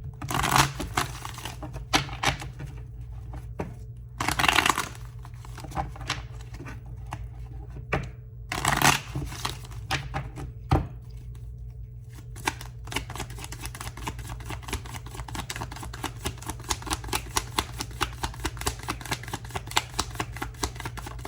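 A deck of tarot cards being shuffled by hand to draw a card. There are a few brief swishes in the first nine seconds, then from about twelve seconds in a long run of quick, light clicks of cards sliding and tapping. A steady low hum runs underneath.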